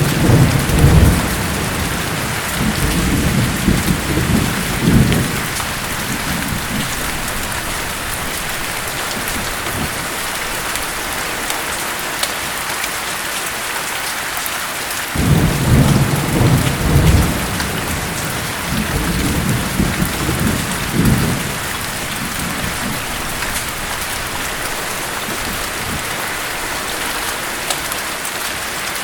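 Steady heavy rain with two rolls of thunder, one right at the start and one about fifteen seconds in, each rumbling for about six seconds.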